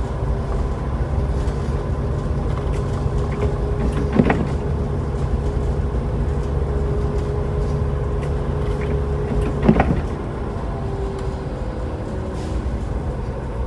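Steady road and engine rumble inside a car's cabin while driving on snowy roads. A windshield wiper sweeps across the glass twice, about five and a half seconds apart, set to intermittent.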